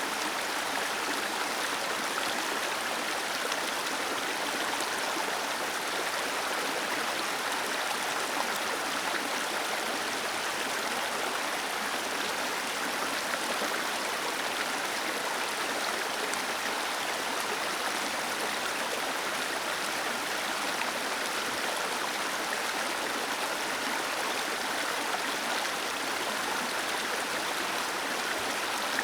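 Small waterfall cascading over rocks into a stream, a steady rushing of water with fine splashing and no change in level.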